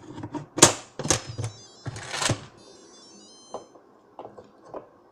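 Lid of a Farberware 6-quart electric pressure cooker knocking and clattering as it is set and turned into place, several sharp knocks in the first two seconds. A short run of electronic beep tones from the cooker follows, with a few light clicks near the end.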